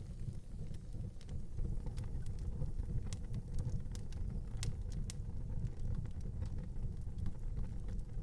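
Wood fire burning in an outdoor fireplace: a steady low rumble with scattered sharp crackles and pops at irregular moments.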